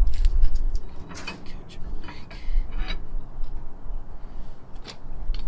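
Scattered metallic clinks and knocks from tools and axle parts being handled, over a steady low rumble.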